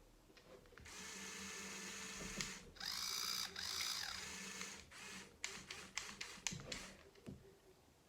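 Electric motors and gearing of a remote-controlled Lego Technic 6x6 tow truck whirring in two spells of about two seconds each, the pitch rising and falling in the second spell, followed by a series of sharp plastic clicks.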